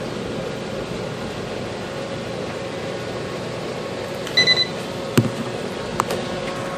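Homemade waste-oil furnace burning with a steady noise of its burner and blower fan. About four seconds in comes a short electronic beep, then two sharp clicks.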